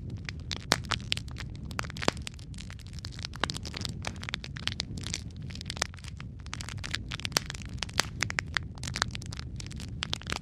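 Wood fire crackling in a fireplace: a steady low rumble of flames under dense, irregular crackles and a few louder, sharper pops.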